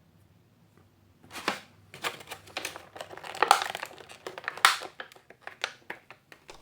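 Plastic toy blind-bag packaging crinkling and rustling in irregular bursts as it is handled and torn open, starting about a second in, with the loudest crackles in the middle.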